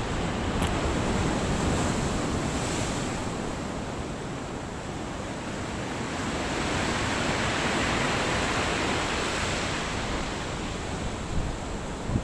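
Rough sea surf: waves breaking and washing in, swelling about a second in and again, longer, from about six seconds, with wind buffeting the microphone.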